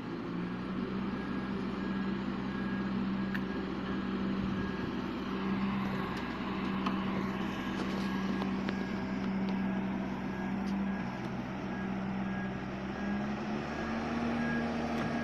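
A vehicle's diesel-like engine running steadily under load, rising slightly in revs near the end, with a faint pulsing beep like a reversing alarm.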